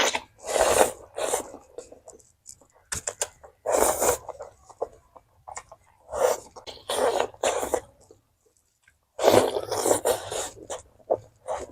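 Close-miked eating: a series of loud mouth noises of biting and chewing, coming in several short bursts with brief pauses between them.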